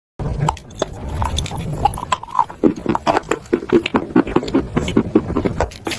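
A person biting and chewing chalk: a fast run of dry, sharp crunches, several a second.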